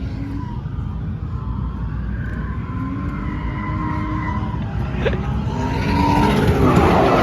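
Drift cars' engines revving at a drift event, pitch rising and falling as they are pushed through the course, over a steady low rumble. They grow louder near the end.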